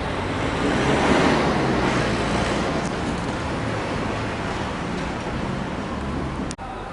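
Street traffic noise, swelling about a second in as a vehicle goes by, then a steady hum of traffic that breaks off suddenly for a moment near the end.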